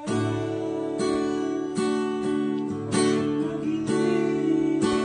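Acoustic guitar strumming chords, about one strum a second, with no singing.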